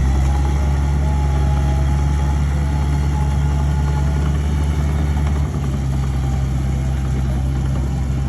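Heavy diesel engine running steadily with a deep, even hum. About five and a half seconds in, its lowest note drops and the sound eases off slightly.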